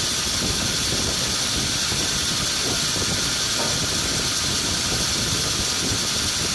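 Sawmill machinery running steadily: an engine drone under an even, continuous hiss.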